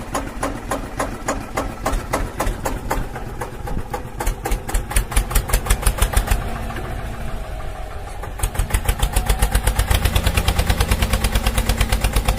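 Mini diesel engine running with an even, rapid chugging beat, growing louder and faster from about eight seconds in.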